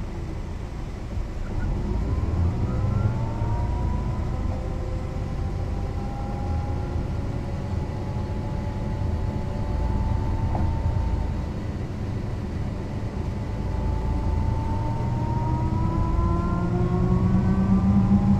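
Mercedes-Benz O 405 NÜ bus under way, its diesel engine running with a drivetrain whine. The whine rises in pitch as the bus picks up speed, levels off, then climbs again near the end as the engine grows louder.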